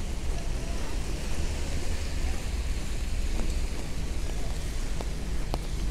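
Steady rain hiss over a low rumble of city traffic, with a few light ticks in the second half.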